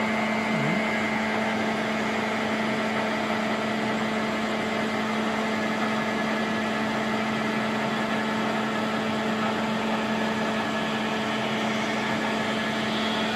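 Caser gantry milling machine running steadily while milling a helical ramp around a circle, its spindle set to 600. The sound is a constant mechanical hum with one strong steady tone and fainter higher tones, unchanging throughout.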